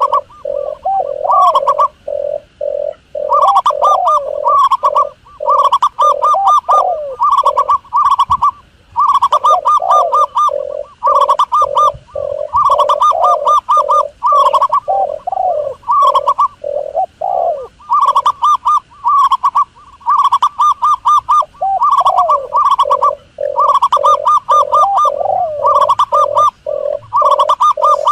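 Doves calling continuously: rapid, trilling cooing phrases repeated over and over, several calls overlapping, as played from a recorded lure call for dove hunting.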